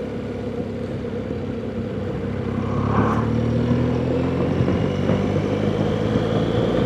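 BMW R1200GS flat-twin engine running under way over a steady rush of wind and road noise. About three seconds in the engine note gets louder and rises a little as the bike pulls harder.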